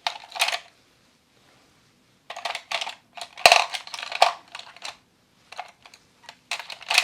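Plastic makeup cases and compacts clicking and clattering as they are handled, in several bursts of quick clicks, with one sharper knock about three and a half seconds in.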